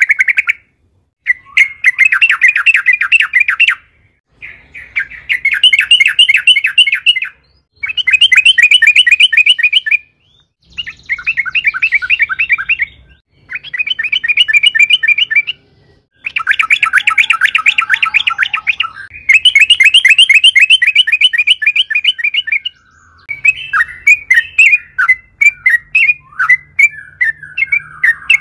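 Yellow-vented bulbul (trucukan) singing a long rolling song: bursts of rapid, evenly repeated notes, each lasting two to three seconds, with short pauses between them. Near the end the song loosens into a chatter of separate, varied notes.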